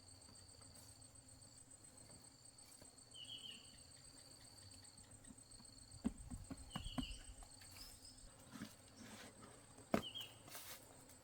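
Insects trilling steadily in rural surroundings, a high continuous buzz with three short chirps spread through it. From about halfway a series of light knocks and footfalls joins in.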